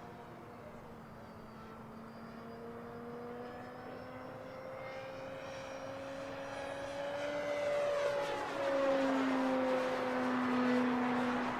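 Electric-powered RC P-47D warbird's brushless motor and propeller flying by: a steady whine that slowly rises in pitch and loudness as it approaches, then drops in pitch about eight seconds in as it passes.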